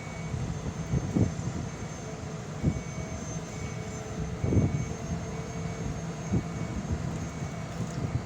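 An engine running steadily, its drone with a few fixed tones over an uneven low rumble, with scattered dull thumps.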